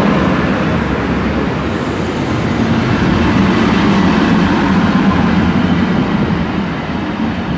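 Class 185 diesel multiple unit pulling into the platform, its diesel engines and wheels making a steady, loud rumble that eases slightly near the end.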